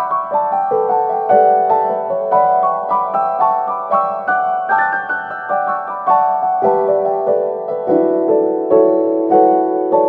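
Background piano music: a flowing melody of notes struck several times a second.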